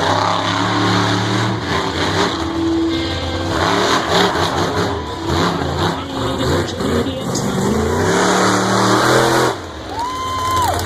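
Monster truck engines revving at a track, rising and falling in pitch again and again. Near the end a short steady tone sounds for under a second.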